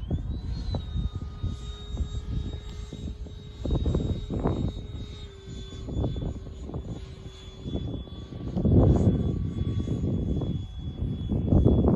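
Electric ducted fans of a Freewing F-22 Raptor RC jet whining steadily in flight, their pitch stepping down slightly a few times with throttle. Gusts of wind buffet the microphone, heaviest near the end.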